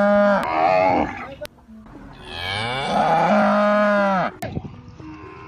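Cow mooing: a long moo that ends about a second in, then a second full moo lasting about two seconds.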